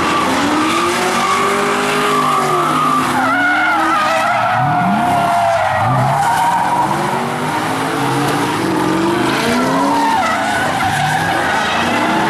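Drift cars' engines revving up and falling back over and over as they throttle through a slalom, with tyres squealing.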